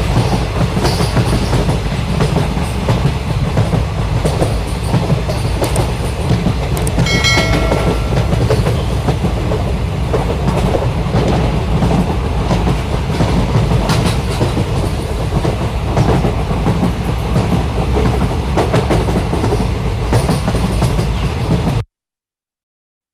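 Sri Lanka Railways train running along the track, a steady loud rumble with the clickety-clack of its wheels. A short horn sounds about seven seconds in. The sound cuts out abruptly near the end.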